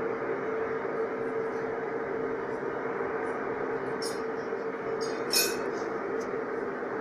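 A steady, loud droning hum with a constant tone, coming from overhead, its source unidentified. Light metallic chime-like tinkles ring out briefly about four and five and a half seconds in.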